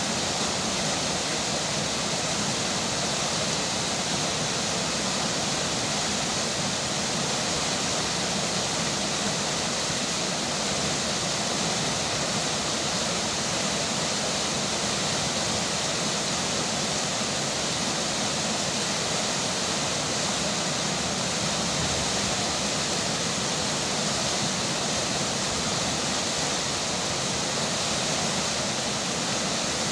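Rain falling and river water flowing, one steady, unbroken rush of water noise.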